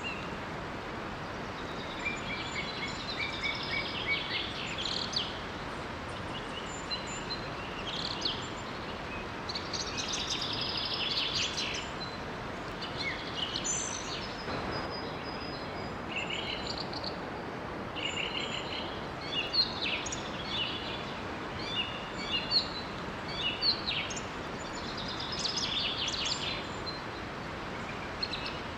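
Several songbirds singing and chirping in short, repeated phrases over the steady rush of a small waterfall.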